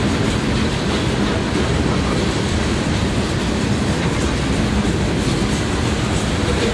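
A freight train's covered hopper cars and boxcars rolling past, their steel wheels running on the rails in a steady, loud rumble.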